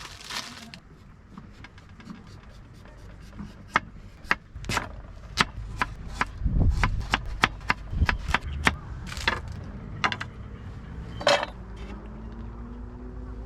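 An irregular run of sharp wooden knocks and cracks, bunched in the middle, some with a dull thud beneath them: firewood being handled or knocked together.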